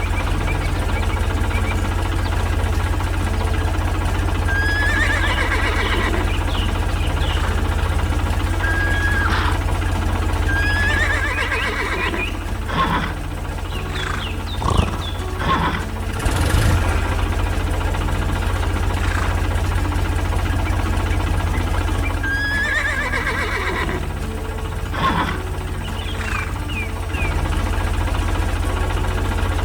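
A horse whinnies three times, about five, eleven and twenty-three seconds in, over a steady low tractor engine drone. Several sharp knocks come between the calls.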